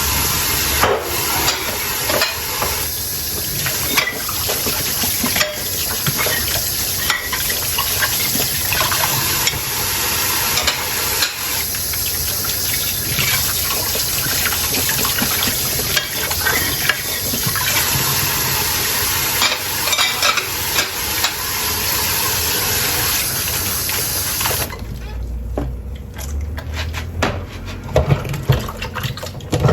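Tap water running into a sink while dishes are washed by hand, with many short clinks and knocks of crockery under the flow. About 25 seconds in the water is turned off and the dishes and cutlery go on clinking on their own.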